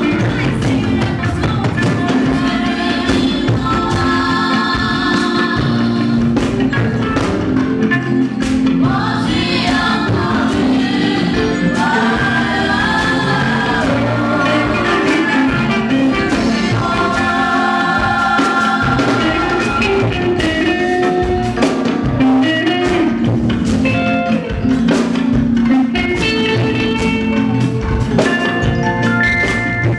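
Gospel music: voices singing over drums and other percussion.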